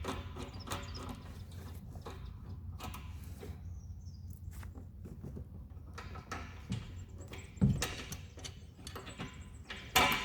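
Hand-tool work on a car: scattered light clicks, taps and scrapes of tools and parts being handled, over a steady low hum, with two sharper knocks about seven and a half seconds and ten seconds in.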